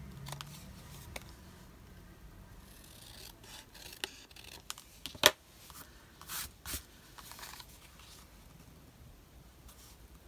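Scissors cutting paper in a few short snips, with light paper handling and a sharp click about halfway through.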